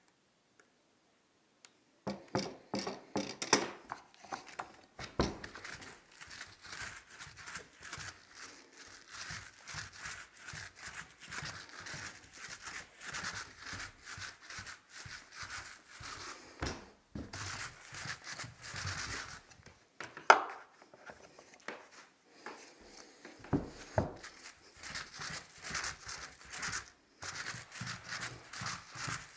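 Wallpaper being handled and smoothed onto a wall: continual rustling, rubbing and crinkling of paper with scattered small knocks and a sharp knock about twenty seconds in. It starts about two seconds in, after a near-silent start.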